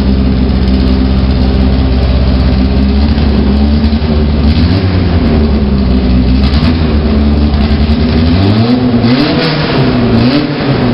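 The Jidé race car's 1600 cc engine idles steadily, then is revved twice in quick throttle blips near the end, its pitch rising and falling each time.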